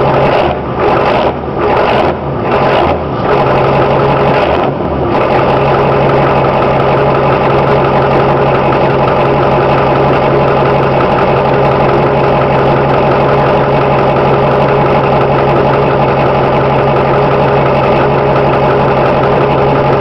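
1987 Ford F-250's 6.9-litre IDI V8 diesel idling through a straight-piped 3.5-inch exhaust shortly after a cold start, with several brief dips in level in the first five seconds, then running steadily. The owner says the engine needs new injectors.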